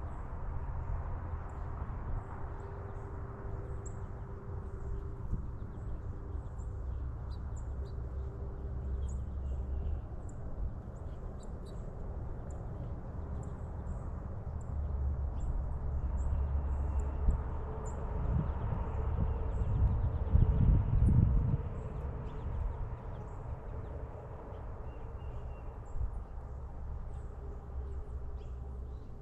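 Small birds chirping in short, scattered calls over a steady low outdoor rumble. The rumble swells louder and fades again about twenty seconds in.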